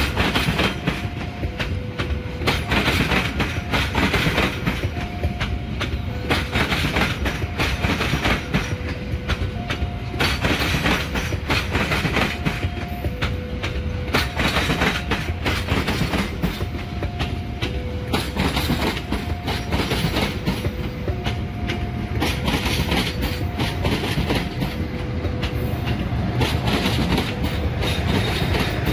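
Stainless-steel passenger train under a CC 206 (GE CM20EMP) diesel locomotive, shunting: wheels clacking over and over across rail joints and the diamond crossing. A short two-pitched tone recurs about every second throughout.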